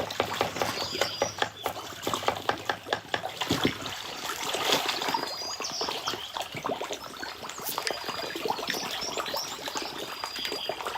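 Water splashing and trickling in many quick, irregular splashes, with a few brief high chirps.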